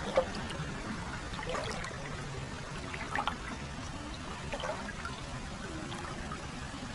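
Hot spring water pouring and trickling steadily into a footbath, with a few small splashes; the sharpest comes just after the start.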